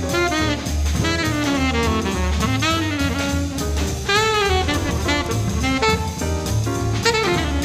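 Upbeat jazz music with saxophone and brass playing a busy melody over bass and drum kit.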